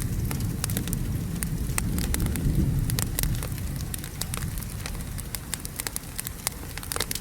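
Wood fire crackling with frequent sharp pops, over steady rain and a low thunder rumble that dies down after the first few seconds.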